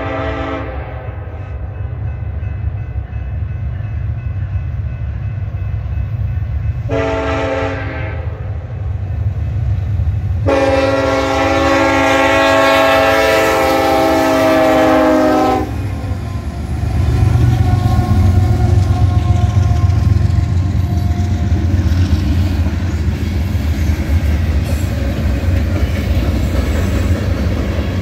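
Union Pacific freight locomotive's air horn sounding the end of a grade-crossing signal: a blast trailing off at the start, a short blast about seven seconds in, and a long blast of about five seconds. The diesel locomotives then pass close with a louder engine rumble, and freight cars roll by, their wheels clattering over the rail joints.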